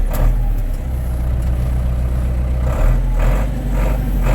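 Case 885 XL tractor's diesel engine running steadily at low revs, heard from inside the glazed cab.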